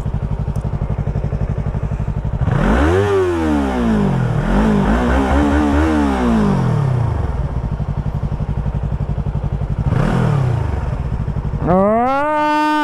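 Sport motorcycle engine running under the rider, steady at first, then rising and falling in pitch several times as it revs up and eases off, over a constant rush of wind and road noise.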